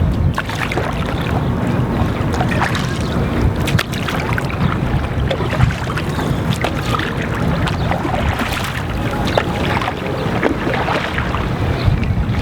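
Stand-up paddleboard paddle splashing and dipping through the water in irregular strokes, with wind rumbling on the microphone throughout.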